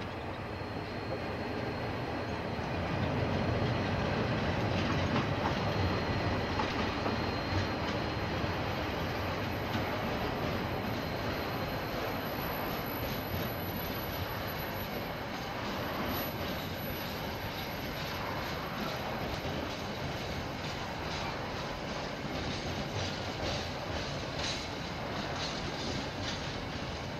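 KiwiRail train passing on the line: a steady rumble of locomotive and wagons on the rails, loudest a few seconds in, with wheel-on-rail clicks standing out more near the end.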